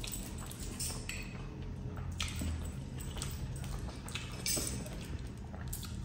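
Wet chewing and lip smacks as a man eats chicken curry and rice with his fingers. The sounds come as short, irregular clicks and squelches.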